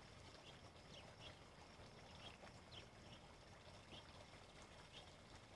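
Faint, short bird chirps repeating every half second or so over a low steady hiss.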